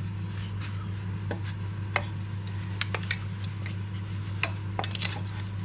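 Scattered light clicks and taps of hands and a measuring tool handled against a wooden spindle as it is measured up, over a steady low hum.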